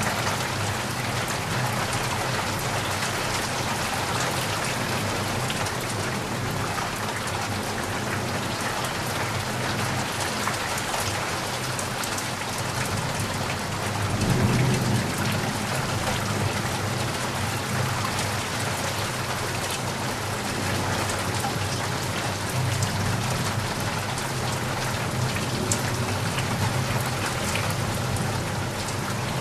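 Heavy rain falling steadily, a dense even hiss of drops on surfaces, with a low rumble swelling briefly about halfway through.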